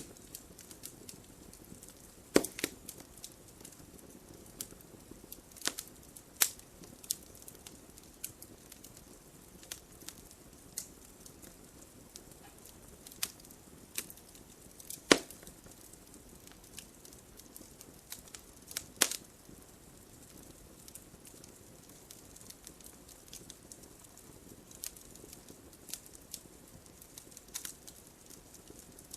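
Wood fire burning in a fireplace, crackling, with irregular sharp pops, the loudest a few seconds in, about halfway through and just after that, over a soft low hiss of flame.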